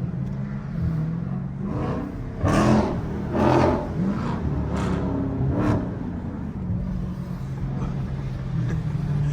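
V8 muscle car exhaust running at a steady low idle, with four short, loud rev blips near the middle.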